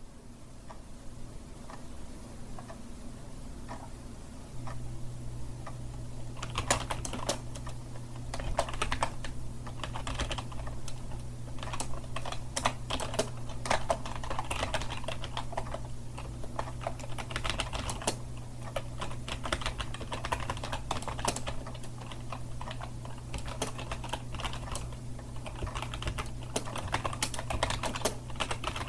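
Typing on a computer keyboard: a fast, irregular run of key clicks that begins about six seconds in after a few scattered taps. A steady low hum runs underneath.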